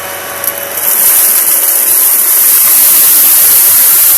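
Kenmore 600 series bagless upright vacuum cleaner running over sandy carpet, its motor hum giving way about a second in to a much louder steady rushing hiss of suction.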